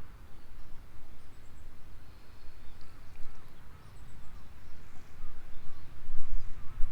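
Outdoor ambience: an uneven low rumble with faint bird chirps scattered through it.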